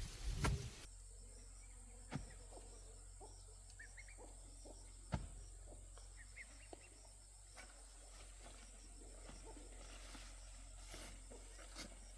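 Quiet outdoor ambience: a brief louder noise at the very start, then two sharp knocks a few seconds apart, faint short bird chirps and a few small clicks.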